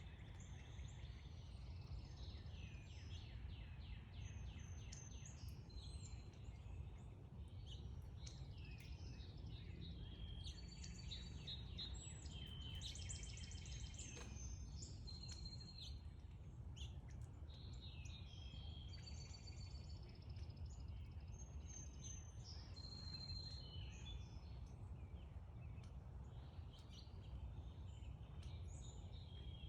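Several songbirds chirping and singing, with many short overlapping calls and trills, over a steady low background rumble.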